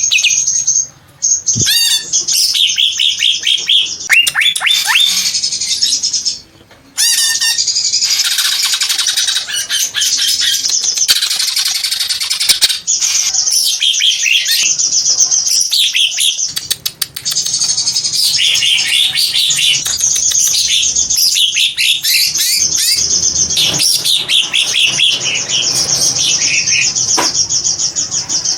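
Cucak hijau (greater green leafbird) singing a long, fast, chattering song of rapid high trills and whistles, broken by short pauses about a second in and again near seven seconds.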